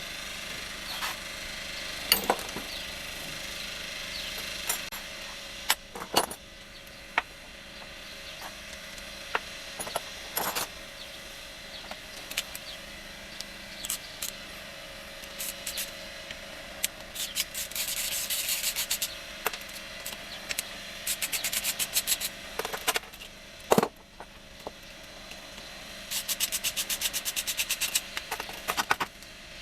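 Hand tools undoing the bolts and nuts on a motorcycle engine's housing: scattered metal clinks and knocks, and three runs of rapid ratchet clicking in the second half.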